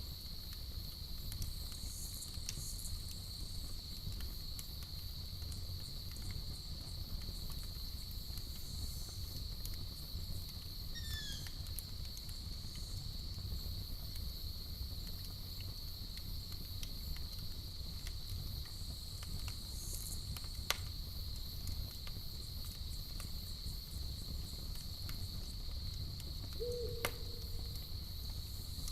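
Campfire burning with scattered sharp crackles and pops over a low steady rumble, under an unbroken high trill of crickets. A short falling chirp comes about 11 seconds in, and a brief low call comes near the end.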